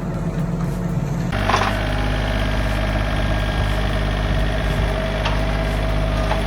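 An engine running steadily. Its sound changes abruptly about a second in, then holds a steady tone.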